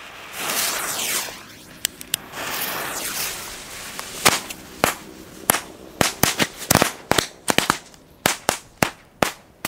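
Two Knallfrösche (jumping-jack frog firecrackers) fizzing as their fuses burn, then going off in a string of sharp, irregularly spaced bangs, about a dozen over the last five seconds.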